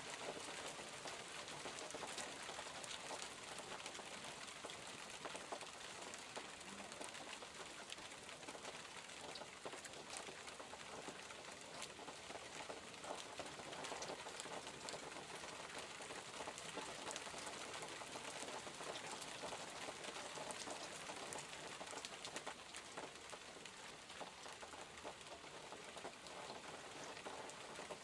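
Steady rainfall, with many small drop ticks scattered through an even hiss.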